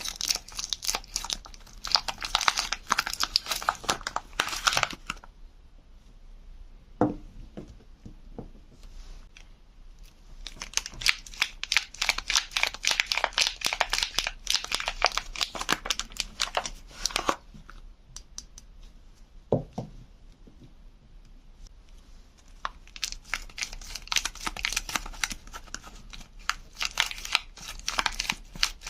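Soap wrapping being torn open and crinkled by hand in three spells of dense crackling, with quieter pauses between them and a couple of soft knocks in the pauses.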